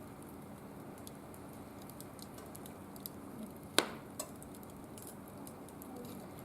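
Wood fire burning in a barbecue grill: scattered small crackles, with one sharp loud pop a little under four seconds in.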